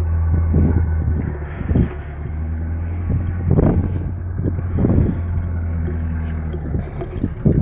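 Ford Ranger engine idling steadily just after a cold start, with several dull thumps over it.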